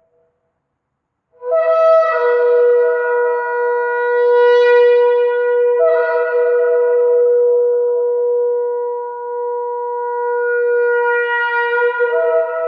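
A shofar (ram's horn) blown in one long, sustained blast that begins after a short silence, about a second and a half in. Its pitch flips between two neighbouring notes a few times as the blast goes on.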